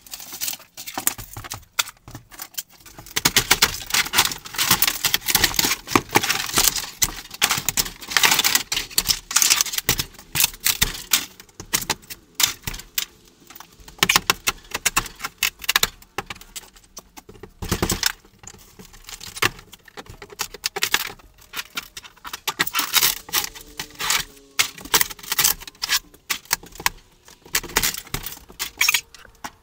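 Continuous rapid clattering, knocking and rattling of wooden cabinet parts and debris as kitchen cabinets are pried and torn out of a camper wall, with one heavier knock about two-thirds of the way through.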